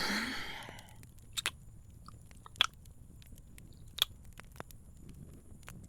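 Wood fire crackling, with a few sharp, scattered pops over a faint low hiss.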